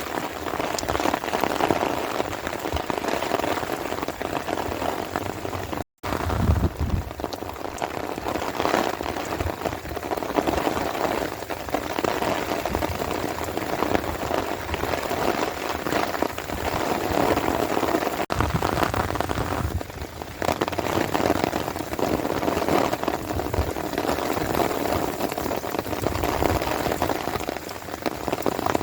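Steady rain falling and pattering on surfaces, recorded on a phone. The sound cuts out for a moment about six seconds in, with a short low thump just after.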